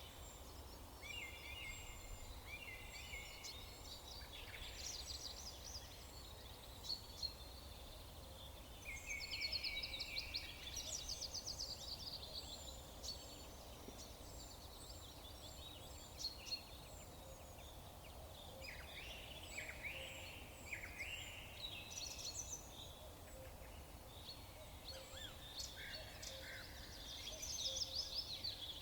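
Several songbirds chirping and singing together: repeated short high chirps, fast trills and downward-sweeping whistles, over a faint steady background hiss and rumble.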